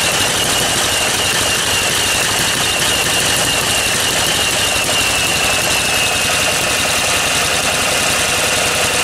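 Small engine being spun over by a powered starter without firing, a fast, even chuff of compression strokes under a high motor whine that sags slightly as the run goes on. It turns over with some compression but won't catch; the owner suspects the spacer has changed the combustion chamber shape too much, with a leaking inlet valve as well.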